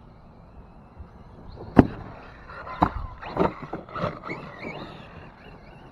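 Team Associated MT8 RC monster truck hitting hard: one sharp crack about two seconds in, then a run of knocks and clatters over the next couple of seconds. A faint high whine sits underneath.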